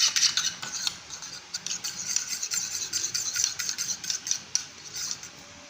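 A fork or spoon beating a raw egg in a small bowl, clicking and tapping quickly and irregularly against the bowl; the clicks thin out near the end.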